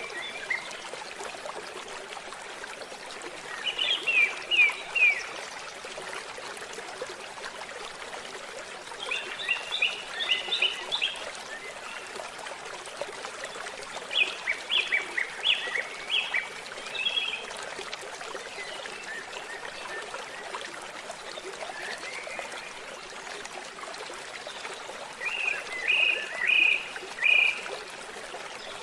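Stream of water trickling steadily, with bird song in four short bursts of quick, high notes.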